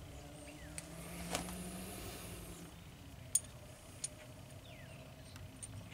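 A few faint, sharp metal clicks and clinks from brake caliper hardware being handled, over a low steady hum.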